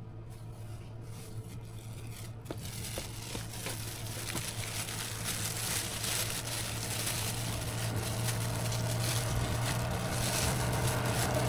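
Engine running steadily: a low hum with a hiss that grows gradually louder.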